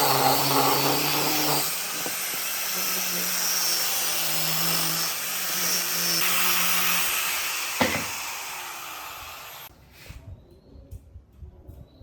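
Electric power tool running, its motor whine shifting in pitch, with one sharp knock late on; the tool then winds down and cuts off shortly before the end.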